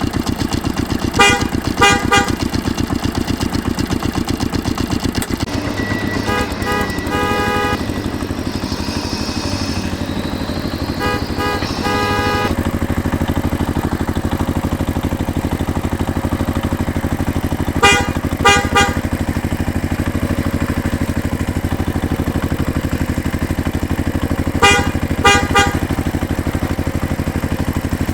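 A vehicle engine running steadily with an even pulse, and a horn giving short toots in groups of two or three, five times over.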